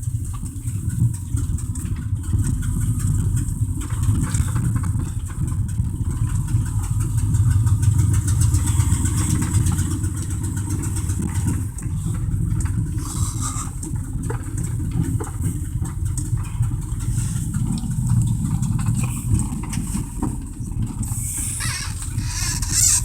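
1987 Dodge Ram D150's 318 V8 running under way, heard from inside the cab, its note swelling about a third of the way in. A few brief rattles come through, mostly near the end.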